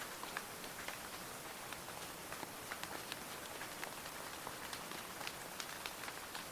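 Steady rain falling, an even hiss with many separate drop ticks close by; no thunder.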